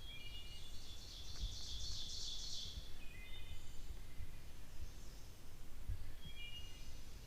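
Songbirds singing in spring woods: a fast, high trilled song from about one to three seconds in, and short whistled notes near the start, around three seconds and again near six seconds, over a low rumble.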